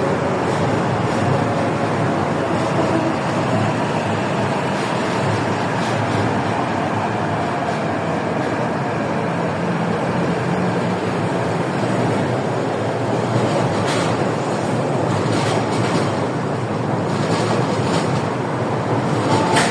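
MTR Q-Train, a Hyundai Rotem electric multiple unit, running through a station platform without stopping: a steady rumble of wheels and traction equipment, with several short sharp clicks in the last few seconds.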